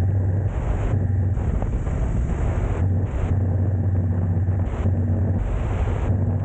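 Steady low hum with even rushing noise, like a car driving along a road.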